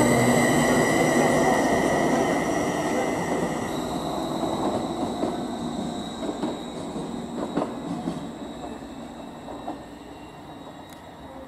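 Greater Anglia Class 755 FLIRT bi-mode multiple unit pulling away and receding, its steady high-pitched whine and rumble fading away. A few sharp clicks about halfway through as its wheels cross the pointwork.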